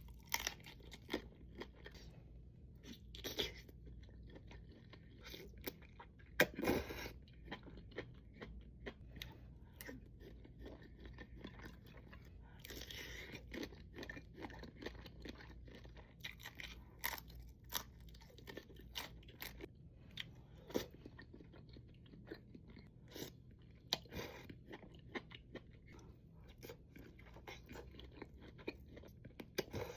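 Close-miked mukbang eating sounds: a person chewing and biting food, with many short crunches and wet clicks throughout. The loudest crunch comes about six and a half seconds in, over a faint steady low hum.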